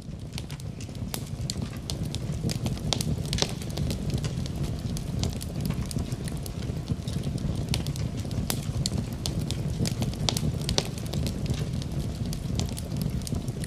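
Wood fire crackling in a fireplace: frequent sharp pops and snaps of burning logs over a low, steady rumble of flame. It swells up over the first couple of seconds, then holds steady.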